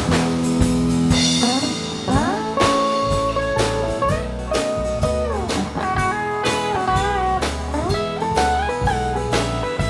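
Live band playing an instrumental break: a lead guitar melody with bending notes over bass and drum kit, with no singing.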